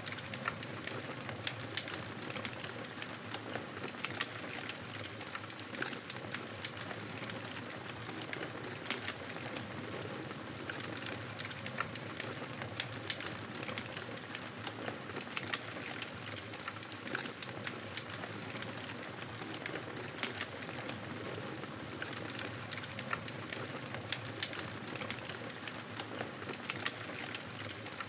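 Wood fire crackling: a steady hiss with frequent small, sharp pops and snaps scattered throughout.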